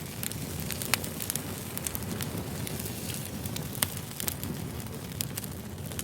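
Wood fire burning: a steady low rumble of flames with frequent sharp crackles and pops from the burning logs, two pops standing out about a second in and just before four seconds in.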